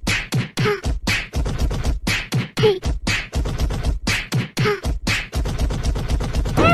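A steady beat of quick percussive hits with a heavy low end and short vocal sounds about once a second, like beatboxing or a beatbox-style music track.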